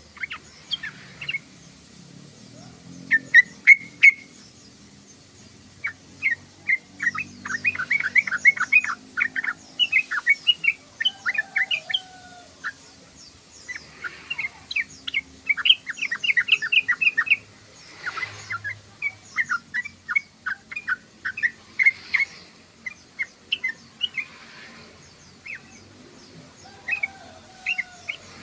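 Yellow-vented bulbul chattering: quick runs of short, bubbly notes, several bouts one after another with brief gaps between them.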